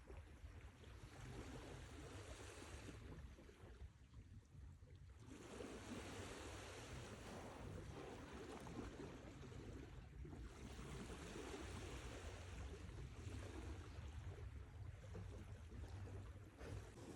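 Sea waves rolling in and washing up, with three long surges a few seconds apart over a steady low rumble.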